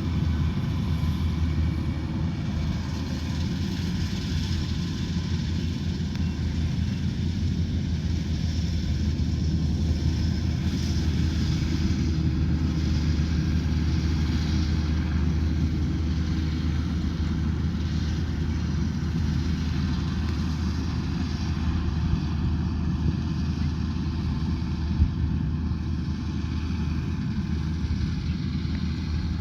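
Rice combine harvester running steadily with a continuous engine drone. There is one brief knock late on.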